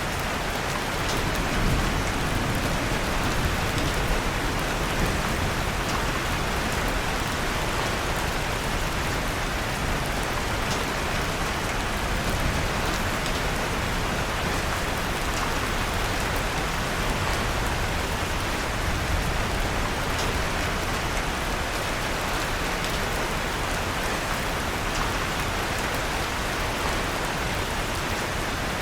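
Steady rain falling, with faint scattered crackles of a wood fire in a fireplace underneath.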